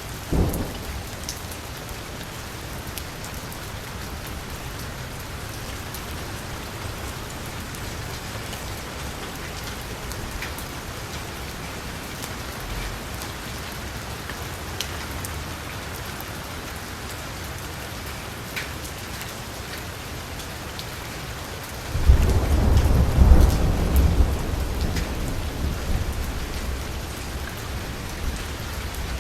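Heavy rain drumming steadily on a car's roof and window, with scattered louder drops. A short thunder rumble just after the start, then a louder rolling thunder rumble breaks in suddenly about three-quarters through and slowly dies away.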